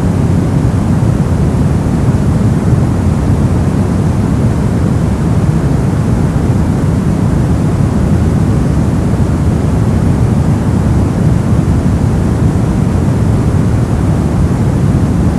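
Steady brown noise: a deep, even rushing hiss weighted to the low end, with no changes or events.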